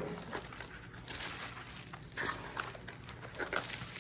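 Plastic packaging wrap crinkling in irregular bursts as it is handled and cut.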